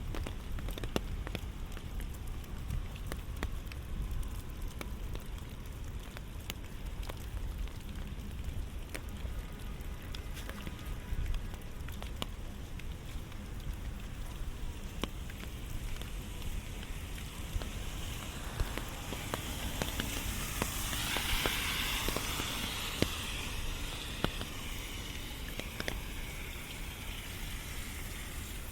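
Steady rainfall, with many scattered sharp drop clicks close to the microphone. About two-thirds through, a rushing hiss swells and fades away.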